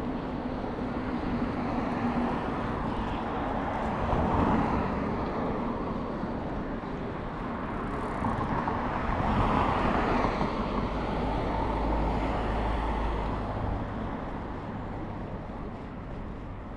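Road traffic with cars passing, swelling as vehicles go by about four seconds in and again near the middle, followed by a low rumble, then fading near the end.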